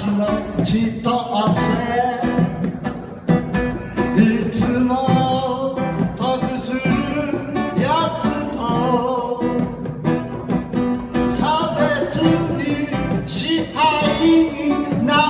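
Live reggae band music with plucked guitar to the fore.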